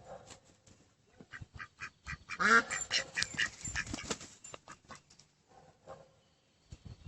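An animal calling, a quick run of calls between about two and four and a half seconds in, loudest near the start of the run.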